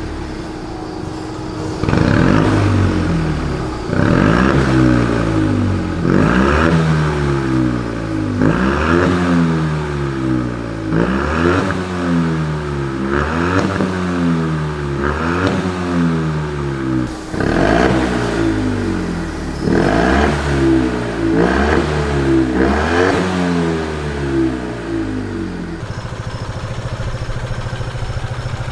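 Fiat 500 Abarth's 1.4-litre turbocharged four-cylinder engine, through a full straight-through aftermarket exhaust, blipped in repeated short revs about every second and a half to two seconds, each rising sharply and falling back toward idle. Near the end it settles back to a steady idle.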